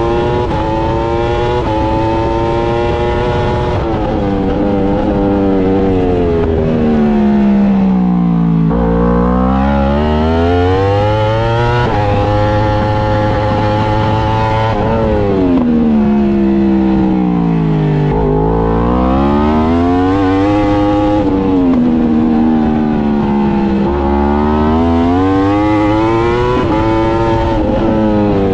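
Yamaha R1 superbike's crossplane inline-four engine at racing pace, revving hard and shifting up through the gears, then falling steeply in pitch as it brakes and downshifts into corners, about three times.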